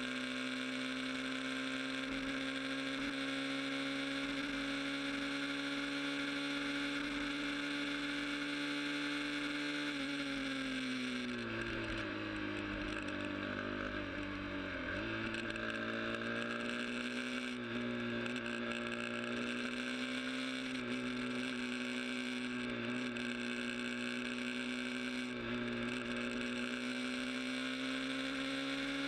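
Sport motorcycle engine running at a steady, high cruising speed. It eases off about a third of the way in, dropping in pitch, then picks up again and holds steady to the end.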